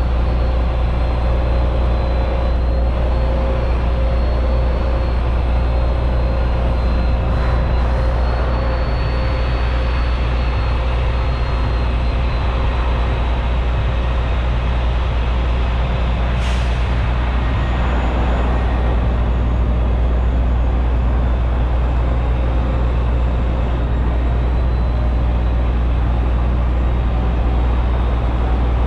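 Semi truck's diesel engine running with a steady low drone and no change in pitch, with a brief high hiss about halfway through.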